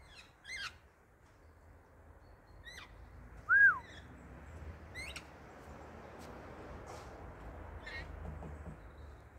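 Short bird calls, about four quick chirps that each sweep downward in pitch, and one loud, clear whistle that rises and falls a little over a third of the way in.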